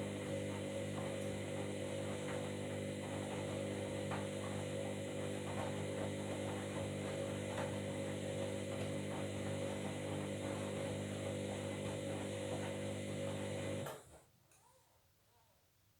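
Washing machine running, a steady motor hum with faint scattered clicks, that stops abruptly about fourteen seconds in.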